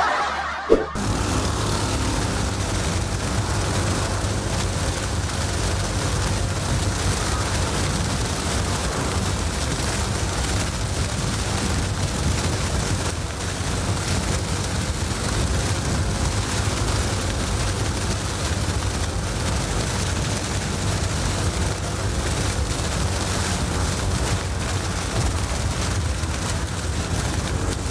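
Steady rushing wind and road noise while riding a Yamaha N-MAX scooter at speed, with a low rumble underneath. It starts about a second in and holds at an even level.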